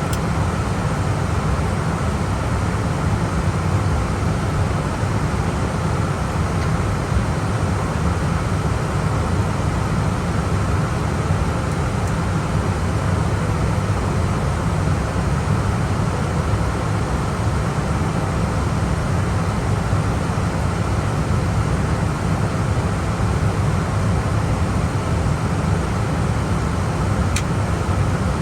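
Steady flight-deck noise of an Airbus A320 in descent: an even rush of air over a strong low hum, with one faint click near the end.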